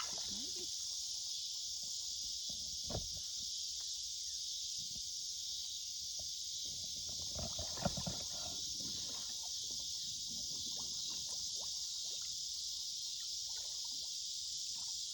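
Steady high-pitched insect chorus, with scattered knocks and water sloshing around a water-filled plastic kayak, a short cluster of them about eight seconds in.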